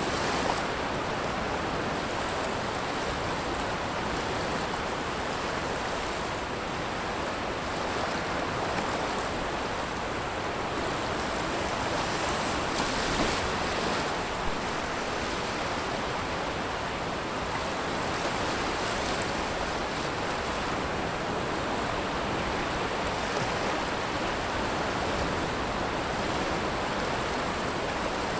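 Sea waves washing in and out over a pebble beach: a steady wash of surf hiss that swells gently a few times, loudest around the middle.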